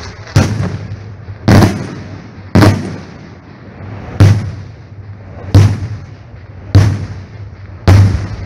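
Fireworks going off: seven loud, sharp bangs about a second or so apart, each with a short fading tail.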